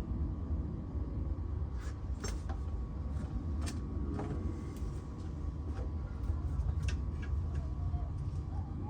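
Steady low rumble with a scattering of light knocks and clicks.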